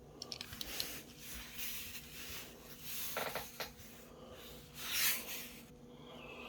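Soft rubbing and rustling handling noises, a few swishes and faint clicks, over a faint steady hum.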